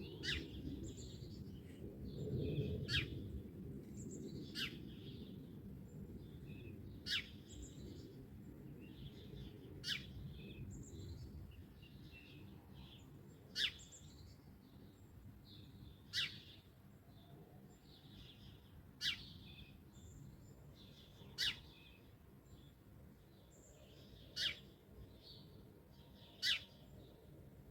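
Wild birds singing outdoors: one bird gives a short, sharp, high call about every two to three seconds, eleven times, with softer chirping from other birds in between. A low rumble underneath fades over the first several seconds.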